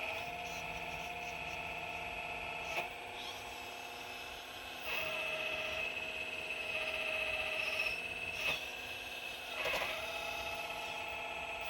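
The 4200XL excavator's motors running with a steady high whine. The whine shifts in pitch a few times as the machine works, with a few short knocks along the way.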